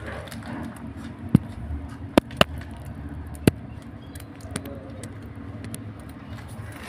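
Four sharp knocks, two of them close together, over a steady low rumble.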